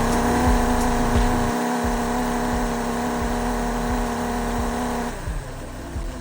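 Lego model V-twin overhead-valve engine running: a steady pitched whine with a low knock repeating about every 0.7 s. The whine drops away about five seconds in.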